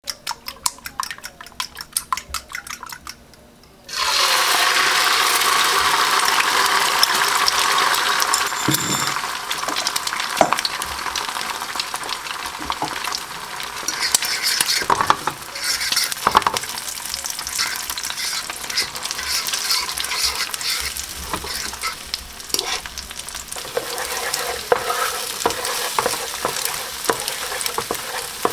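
Fried chicken sizzling in hot oil: a dense, steady crackle of fine pops that starts suddenly about four seconds in, after a run of fast, light clicks.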